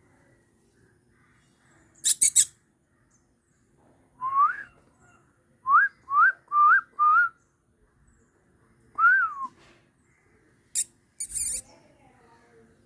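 Short, clear whistled notes: one rising note, then a quick run of four short rising whistles, then one longer whistle that rises and falls. Brief sharp hissing bursts come before and after the whistles.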